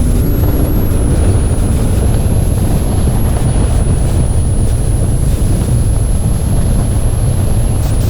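A car on the move: a loud, steady low rumble with a thin, high whine held throughout.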